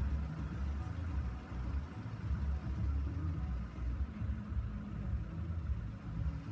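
Road vehicle engine idling, a low, uneven rumble.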